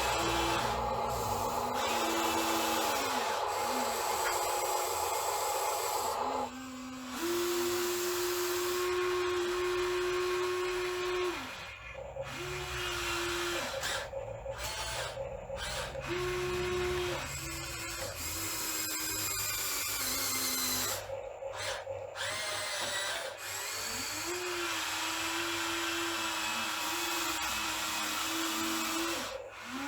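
Electric motors and hydraulic pump of radio-controlled scale construction machines whining as they work. The whine starts, stops and steps up and down in pitch every few seconds as the controls are moved and the load changes.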